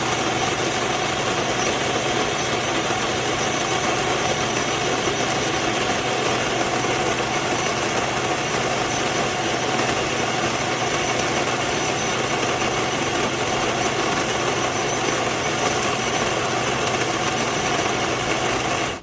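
Electric conical burr coffee grinder running steadily, its motor whirring as the burrs grind beans, then cutting off abruptly near the end.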